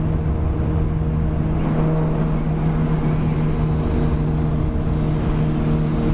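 Motorcycle engine running at a steady cruising speed while riding, its pitch holding even, with wind rumble on a helmet-mounted microphone.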